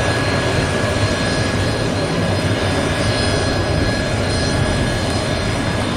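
Turbine aircraft engines running loud and steady, a thick rush of engine noise with thin high whines held over it.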